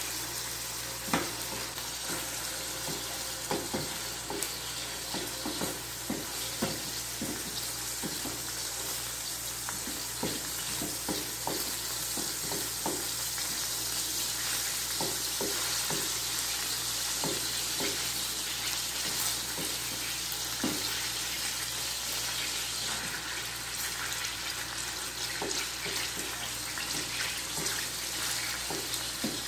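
Chicken strips and sliced onion sizzling in oil in a stainless steel frying pan, with a steady hiss, while a wooden spoon stirs them and taps and scrapes against the pan in many small irregular clicks.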